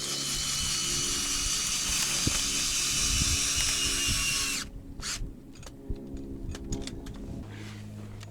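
Cordless drill fitted with an ice-screw adapter driving a tent's ice screw into lake ice, its motor whining steadily, then cutting off abruptly about four and a half seconds in, followed by a few light clicks.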